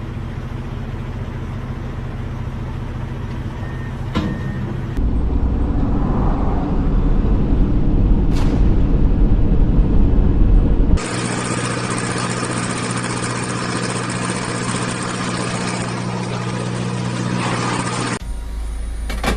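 Vehicle engine and road noise from several short clips cut together, changing abruptly about five, eleven and eighteen seconds in. The loudest stretch, a deep low rumble, runs from about five to eleven seconds in.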